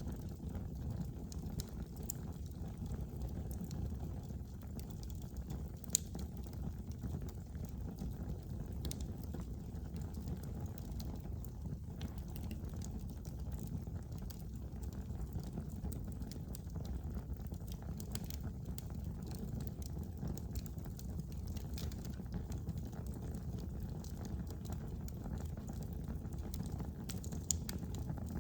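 Wood fire burning in a fireplace: a steady low rush of flames with scattered small crackles. There is a sharper pop about six seconds in and another near the end.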